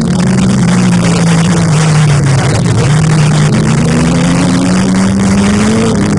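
Several racing motorcycle engines running at high revs together; the main engine note dips about two and a half seconds in, then climbs steadily as the bikes accelerate.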